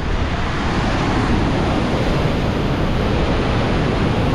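Loud, steady rushing of floodwater pouring through the Derjang dam's open spillway gates.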